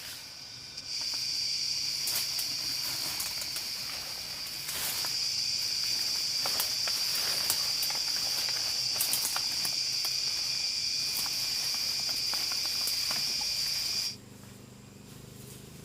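An insect in the forest giving a steady, high-pitched buzzing call. It starts about a second in, grows louder a few seconds later, and stops abruptly near the end, with scattered light clicks alongside.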